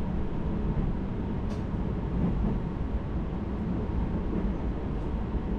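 Steady low running noise of a moving JR Hokkaido electric local train, heard from inside the carriage: wheels rolling on the rails and the running gear at speed, with a faint short tick about a second and a half in.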